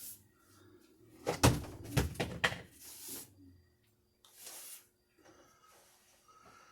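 A quick run of sharp knocks and bangs about a second and a half in, like a door or lid being shut, followed by a couple of short soft rustles.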